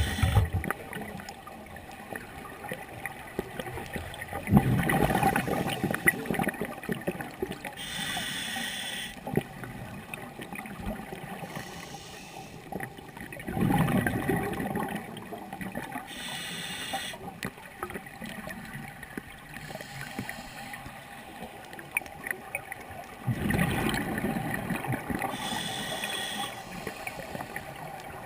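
Scuba diver breathing through a regulator underwater, about three breaths: each one a hissing inhale through the demand valve and a burst of rumbling exhaust bubbles.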